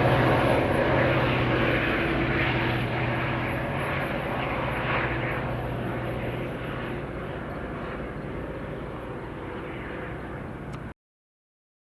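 A UTA FrontRunner commuter train's diesel locomotive engine running with a low steady hum, fading gradually as the train moves away, until the sound cuts off abruptly near the end.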